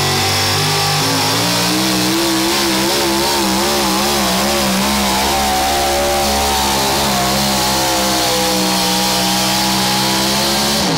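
A pulling vehicle's engine running hard at high revs under load. Its pitch wavers rapidly up and down for several seconds, then holds steadier.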